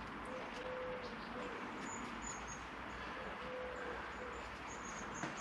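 Faint bird calls: a few short high chirps and some lower, cooing-type notes, over a steady low background hum.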